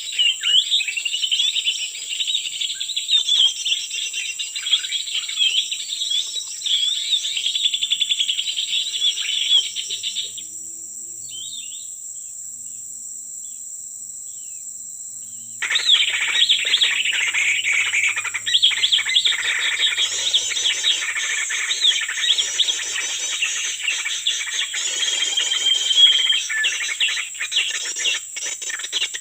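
Dense bird chirping and twittering over a steady high insect drone. The birdsong cuts out about ten seconds in and starts again abruptly some five seconds later, while the drone carries on.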